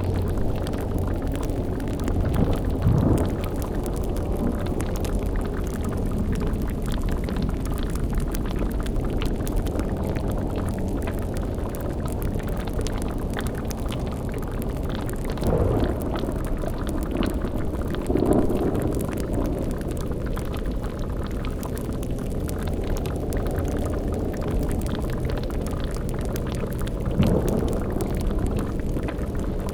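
Cauldron bubbling and boiling over a steady low rumble, with a few louder swells rising out of it about 3, 15, 18 and 27 seconds in.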